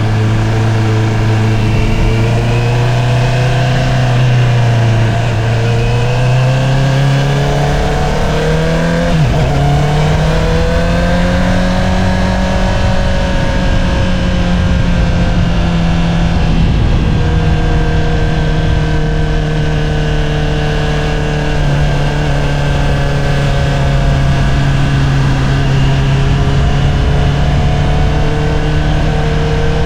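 Honda CBR650R's inline-four engine through an Akrapovič single-outlet exhaust, under way. The engine note climbs about a quarter of the way in, then holds fairly steady at a higher pitch while cruising, with wind rush beneath it.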